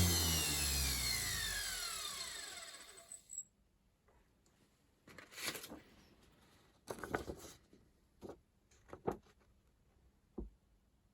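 Washing machine universal motor coasting down, its whine falling steadily in pitch and fading out over about three seconds. It is followed by a few scattered knocks and clicks.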